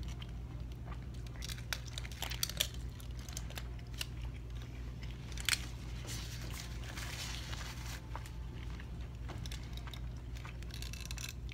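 A person chewing a mouthful of breakfast burrito, with scattered wet mouth clicks and the crinkle of its foil and paper wrapper being handled. A steady low hum runs underneath.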